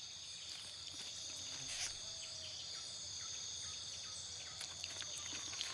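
Steady, high-pitched chorus of forest insects, with a few faint ticks near the end.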